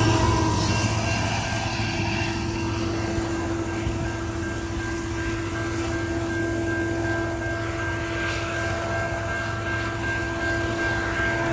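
A steady engine drone with a constant hum, while the rumble of the passing train fades away over the first couple of seconds.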